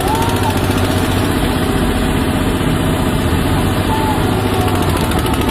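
Tractor diesel engines running hard under load, straining against each other in a tug-of-war, with a fast, steady exhaust beat.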